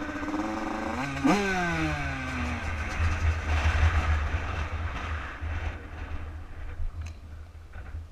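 Bored-out Yamaha YZ Supermini two-stroke dirt bike engine running, with a sharp rev about a second in that falls away. The engine then runs on with a rough low rumble and fades toward the end.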